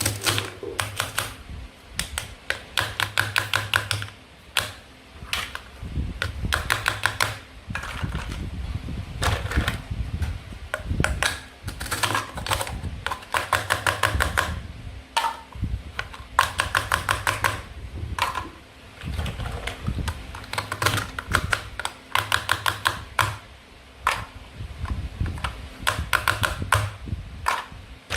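Toy fruit and vegetables being cut and handled, making rapid trains of small hard clicks in bursts every second or two.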